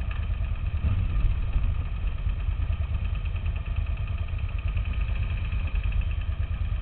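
Off-road motorcycle engine idling steadily.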